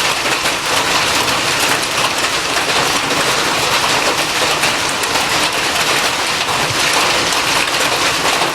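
Hail falling hard, a dense, steady patter of countless small impacts.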